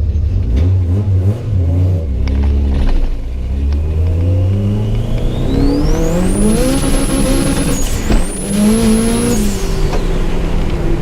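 Subaru Impreza GC8's flat-four engine under hard acceleration on track, rising in pitch with a high whine climbing alongside the revs. Near the middle the revs dip briefly at a gear change and climb again, then fall away as the throttle is lifted.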